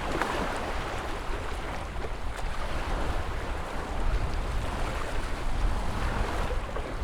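Ocean surf washing in, a continuous rush of water over a deep rumble, with a stronger surge just at the start.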